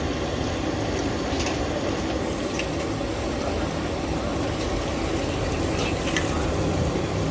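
Steady, low, rumbling street-stall background noise, with a few faint clicks and distant voices.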